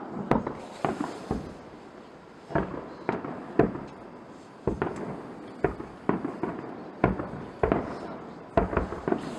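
Aerial fireworks bursting: an irregular run of sharp booms, several a second at times, each ringing out afterwards, with bursts of crackling mixed in.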